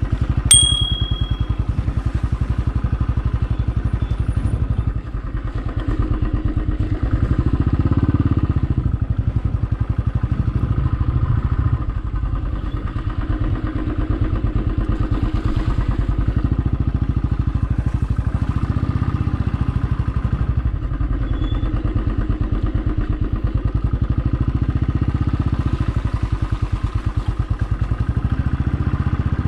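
Motorcycle engine running while riding, a steady rapid beat that rises and falls a little with the throttle and eases off briefly about five seconds in.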